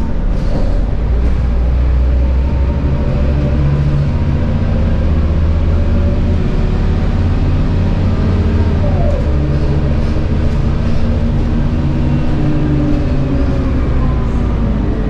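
Scania K230UB bus running under way: its 9.3-litre Scania DC9 five-cylinder diesel and ZF Ecomat 6HP504C automatic gearbox, a steady engine note with a brief falling whine about nine seconds in.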